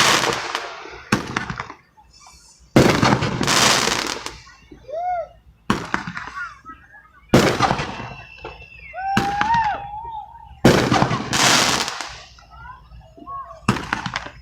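Aerial fireworks going off: about seven loud bangs a second or two apart, each trailing off in crackle and echo.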